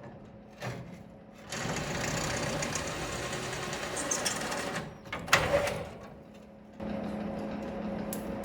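Small electric motor of a power tool running in two stretches, about three seconds and then a second and a half, with a sharp knock between them.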